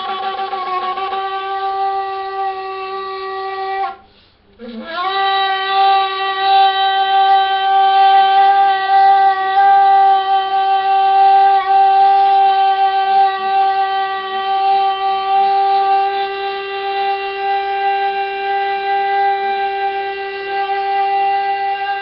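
Shofar (ram's horn) blown: one blast ends about four seconds in. After a short breath, a long blast rises into a single steady held note.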